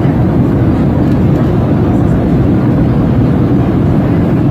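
Airplane cabin noise in flight: a steady, loud rumbling hiss with no changes.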